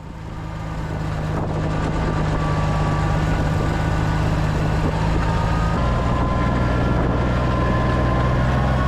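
Tractor engine running steadily, its low note dropping to a deeper pitch about six seconds in, with a faint mechanical whine above it.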